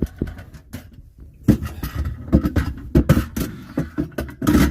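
Irregular knocks and clatters of objects being handled, bumped and set down in a small room, with the loudest cluster of knocks near the end.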